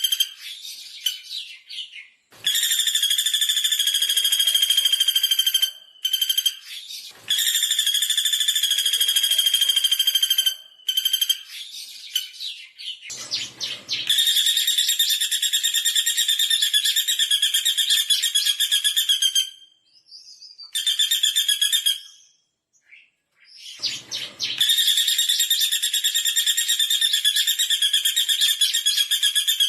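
Pelatuk bawang woodpecker calling: long, fast trills, each a few seconds long, repeated with short pauses between them.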